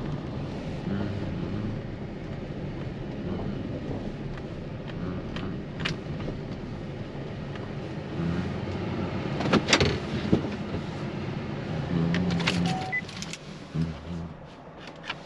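Vehicle running on the road, a steady low rumble with a few sharp knocks and rattles, the loudest cluster about ten seconds in.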